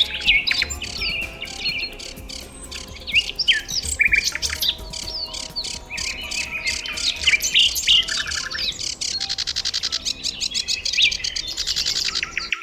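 Several small birds chirping and calling over one another in quick, varied notes, with rapid buzzy trills in the second half.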